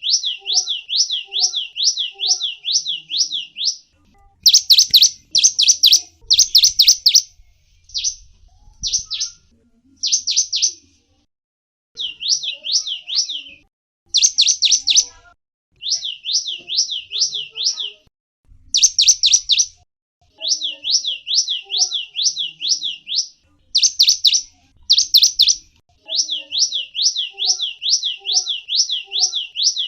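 A gelatik wingko bird calling: fast trains of high chirps, about five a second, each sweeping down and up in pitch. The trains are broken by short pauses and by a few louder, sharper bursts.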